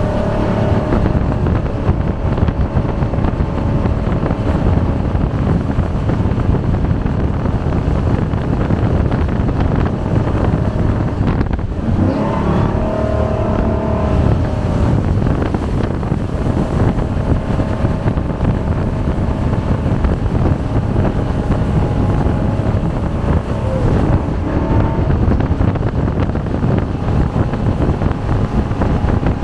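Jet boat running fast, its engine pitch rising and falling a few times, under heavy wind noise on the microphone.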